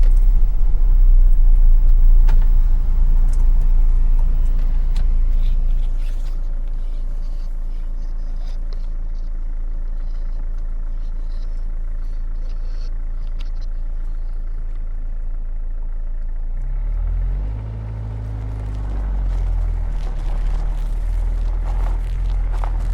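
Four-wheel-drive truck driving, a steady low engine and road rumble that eases after about six seconds; about three-quarters of the way through the engine note dips, then sweeps back up in pitch.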